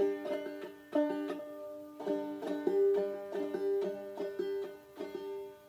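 Five-string banjo played clawhammer style: a steady run of down-stroked notes with the thumb catching the fifth string, a slow, even beginner's practice pattern.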